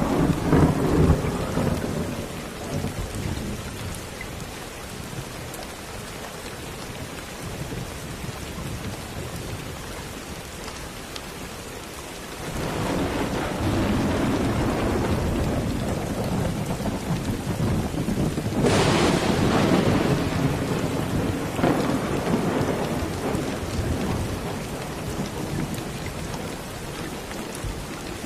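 Steady rain falling, with rolling thunder: a rumble dies away in the first couple of seconds, then another builds up about halfway through, with a sharper crack a few seconds later, and slowly fades.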